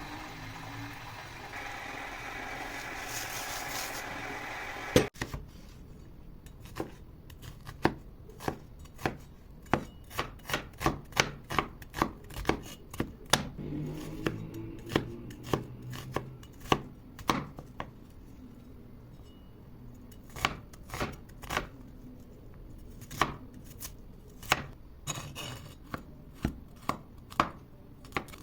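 Water running for about the first five seconds, then a knife chopping on a cutting board in sharp, uneven strokes, about one to three a second.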